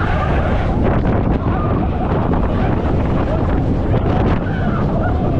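Wind rushing over the microphone and the rumble of a roller coaster train in motion, steady and loud, with riders' voices faintly heard a few times.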